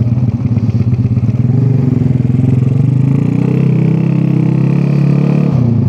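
Honda Revo 110 motorcycle's single-cylinder four-stroke engine running under way, heard from the rider's seat. The engine note grows louder about halfway through as it pulls, then drops away near the end as the throttle eases off.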